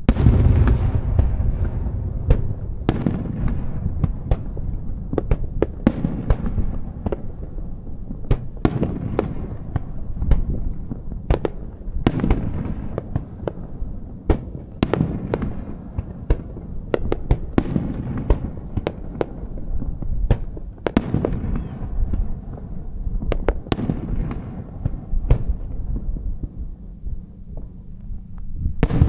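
Fireworks display: a dense barrage of shells bursting, with many sharp cracks and pops over continuous low booms and their rumbling echo, loudest in a big burst at the start.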